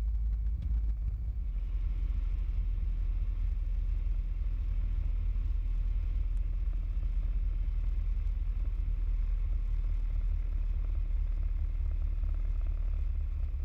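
Piper PA-28 Cherokee's engine and propeller heard from inside the cockpit as a steady low drone, with a little more hiss coming in about a second and a half in.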